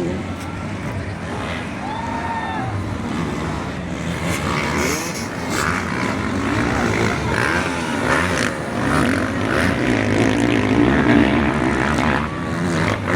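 Motocross dirt bike engines running and revving, their pitch rising and falling repeatedly.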